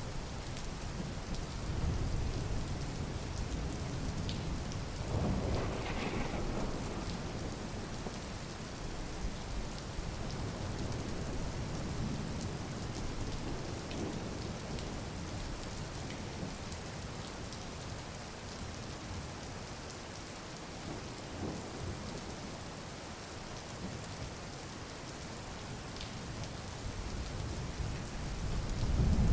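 Steady rain falling, with a low rumbling of thunder underneath that swells briefly about five seconds in and grows again at the very end.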